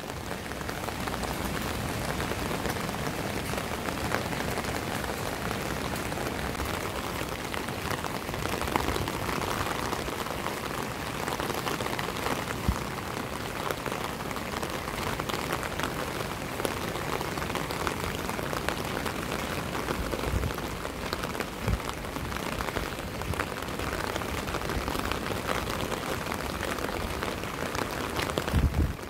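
Steady rain, with countless small drops striking an umbrella canopy overhead. A few dull low thumps stand out in the second half, the loudest near the end.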